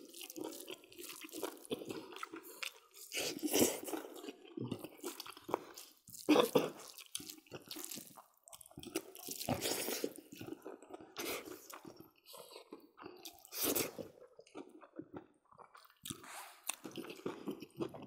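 Close-up chewing of people eating rice and pork curry with their hands, coming in irregular bursts with small crunches and clicks.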